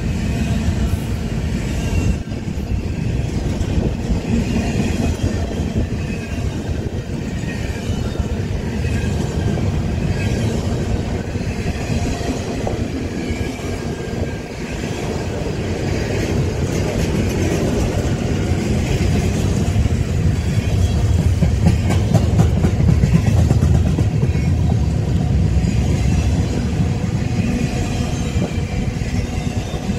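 Intermodal freight train's well cars rolling past close by: a steady rumble of steel wheels on rail, swelling somewhat loudest about three-quarters of the way through.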